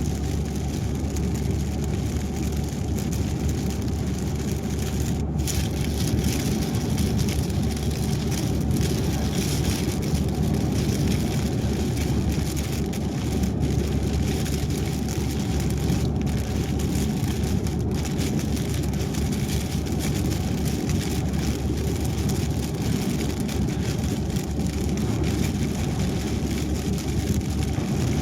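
Car driving on a highway in the rain: a steady low rumble of tyres and engine with a hiss of rain and spray.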